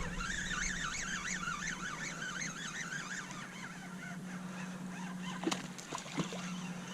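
A bird calling in a rapid, wavering series of notes for the first few seconds, over a steady low hum, with two sharp knocks near the end.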